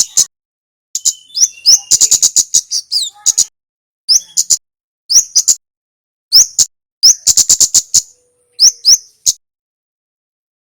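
A male kemade songbird calling loudly: bursts of rapid, sharp, high ticking notes mixed with short rising chips, in clusters broken by pauses of about half a second to a second.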